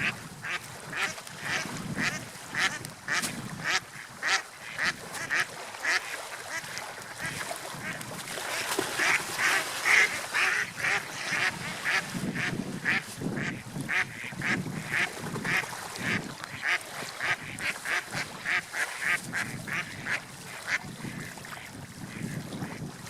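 Gulls calling in a fast series of short cries, about two or three a second, loudest about ten seconds in, over a steady wash of wind and surf.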